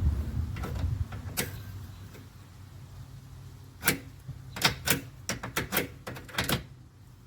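A run of about a dozen short, sharp clicks and taps in quick, uneven succession, after a low rumble in the first second.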